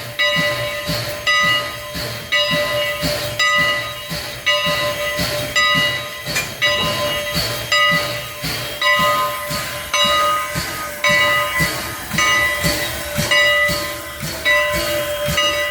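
Steam locomotive working with a steady rhythmic beat, about one and a half beats a second, over a constant hiss of steam.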